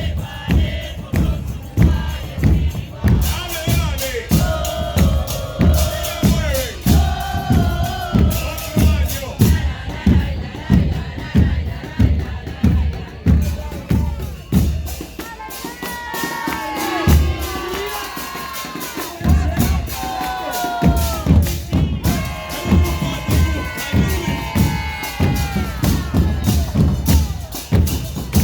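Murga porteña percussion: bombos con platillo (bass drums with a cymbal fixed on top) beating a steady rhythm, about two strikes a second, with voices singing and shouting over it. Past the middle the drums drop out for several seconds, leaving the voices, then come back in.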